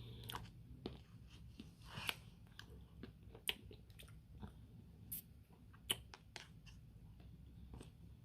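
Close-up sounds of someone eating a Dairy Queen Blizzard: irregular sharp mouth clicks and smacks of chewing, several a second at times, with a few louder ones scattered through.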